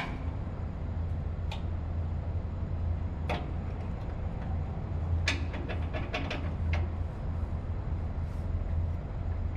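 Steady low machinery hum with scattered sharp metallic clicks and taps from tools on the motor mounting during alignment work, a few single taps and then a quick cluster of them a little past the middle.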